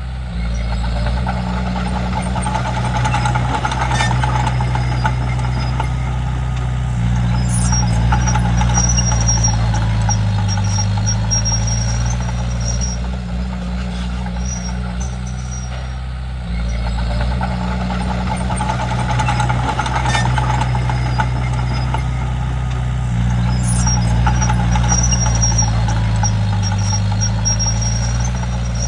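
Komatsu D31P bulldozer's diesel engine running steadily, its note swelling and easing every several seconds as the load changes while the dozer works, with the pitch sagging briefly under the heaviest load.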